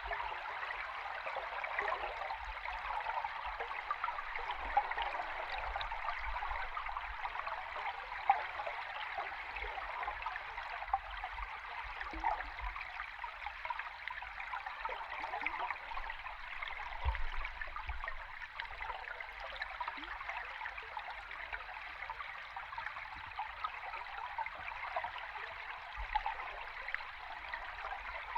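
Flowing river water heard from underwater: a steady rush with a fine, crackling texture of bubbles and moving water, and a few faint low knocks.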